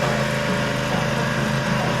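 Ariens zero-turn mower's engine running steadily as the mower is driven on a test run after its Hydro Gear transmission seal was replaced.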